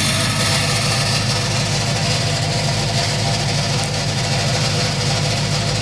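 Ford Econoline E350 van engine idling steadily, shortly after a cold start, heard close to the exhaust. Little pressure reaches the tailpipe because the exhaust system is leaking.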